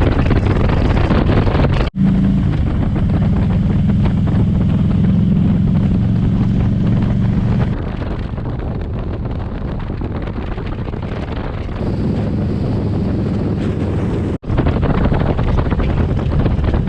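Motorcycle running at road speed, with heavy wind rushing over the microphone. The engine's steady drone is clearest for several seconds after a sudden break about two seconds in. It sits lower from there on, and there is another abrupt break near the end.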